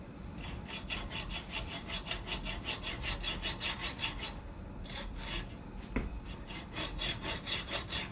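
Hand hacksaw cutting a screwdriver slot into a small threaded metal part, in quick, even rasping strokes about four or five a second. The sawing pauses briefly a little past four seconds in, with a single knock near six seconds.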